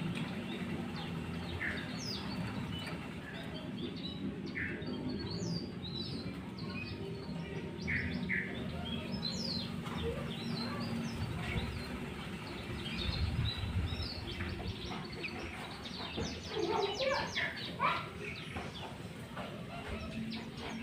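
Sooty-headed bulbul calling: short scattered whistled notes, with a quick run of rapid notes about three-quarters of the way through, over a steady low background hum.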